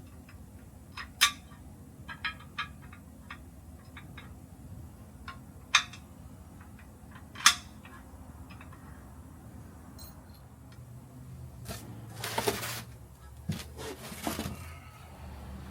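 Scattered metallic clicks and clinks from tools and parts being handled, with three sharp knocks standing out. Near the end come two short scraping, rustling stretches.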